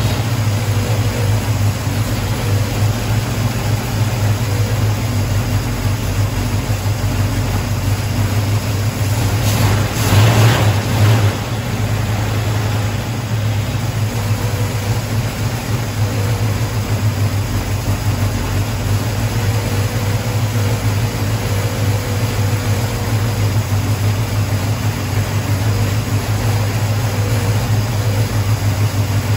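1974 Plymouth Duster's 440 big-block V8 running steadily at idle, briefly louder about ten seconds in.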